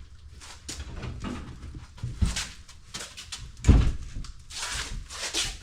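A few knocks and thumps, the loudest a heavy thump about two-thirds of the way in, followed by short bursts of scraping or hissing noise.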